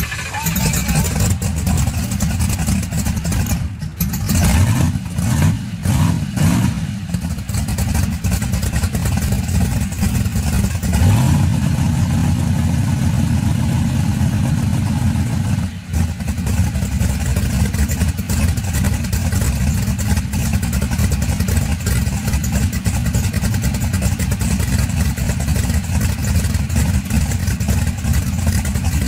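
Twin-turbocharged ProLine drag-car engine running at idle, blipped through a few short revs about four to seven seconds in and once more around eleven seconds, then settling back to a steady idle.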